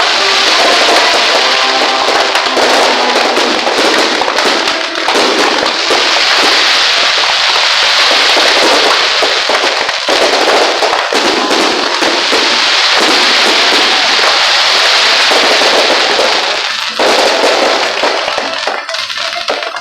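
Firecrackers going off in a rapid, continuous crackle, like a long string burning through, thinning out near the end. Music plays underneath.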